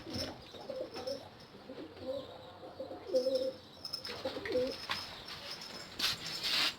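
Domestic pigeons cooing, several wavering low coos one after another. Near the end there is a short burst of rustling noise.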